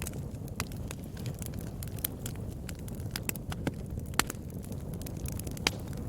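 Wood fire burning in a fireplace: a steady low rumble of flames with irregular sharp crackles and pops, two of them louder, about four seconds in and near the end.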